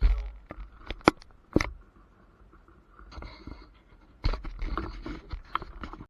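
Irregular knocks, sharp clicks and scraping, rustling noise, with the two loudest clicks about a second and a second and a half in.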